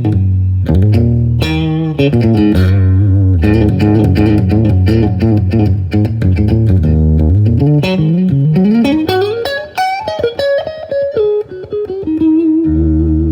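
Electric guitar, a Fender Stratocaster, playing a melodic passage over sustained low bass notes. About two-thirds of the way through it climbs in a long rising run, steps back down in shorter notes, and ends on a held note.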